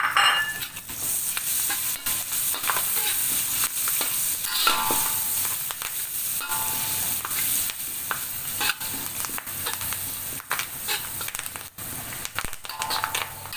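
Curry leaves sizzling in melted butter in a stainless steel wok, stirred with a metal spatula that scrapes and clicks against the pan many times.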